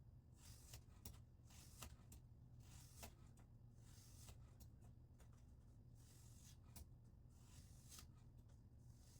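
Faint repeated scraping strokes of a scissors blade drawn across a wet vitrified diamond sharpening stone in a guided sharpener, roughly one stroke every second or so, with a few light clicks.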